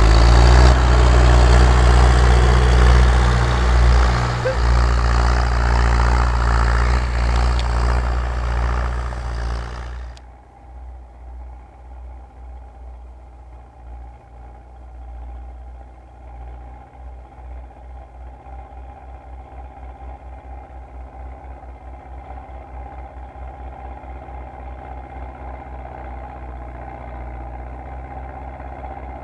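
MTZ tractor diesel engine running loud for about ten seconds. Then the sound changes abruptly to a quieter, duller engine beat that slowly quickens.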